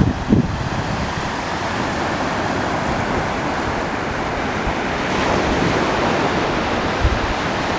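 Ocean surf washing steadily on the shore, with wind buffeting the microphone in low thumps near the start and again near the end.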